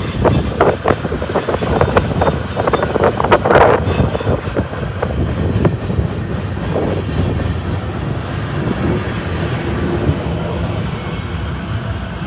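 Freight train rolling past: wheels clanking and squealing on the rails for the first few seconds, then a steady, slowly fading rumble as the cars go by. Wind buffets the microphone throughout.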